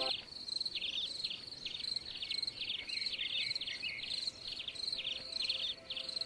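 Crickets chirping in a steady, repeated rhythm of high pulsed chirps, a couple each second, over a continuous high trill.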